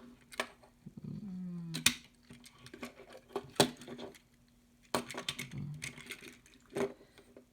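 Scattered small clicks and taps of a die-cast toy car being handled and set down, with a brief low hum about a second in.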